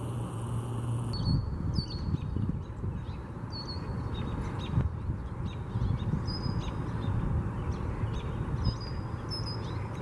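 Wild birds calling: short, thin, high notes come every second or two, with other brief calls lower in pitch, over a steady low rumble.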